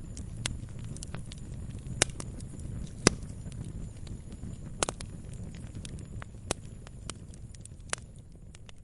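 Wood fire burning in a fireplace, crackling with sharp irregular pops over a low steady rumble of the flames; the loudest pops come about two, three and five seconds in.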